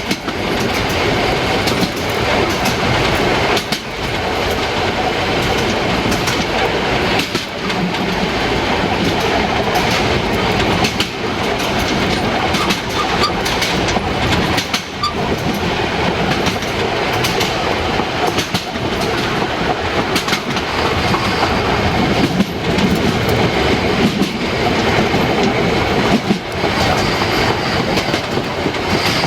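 Narrow-gauge steam train running along the line: a loud, steady rumble of wheels on track with clickety-clack from the rail joints.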